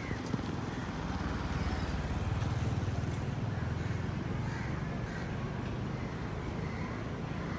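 A BMW 5 Series saloon's engine and exhaust running at low speed as the car moves slowly along the kerb: a steady low rumble that swells a little about two to three seconds in.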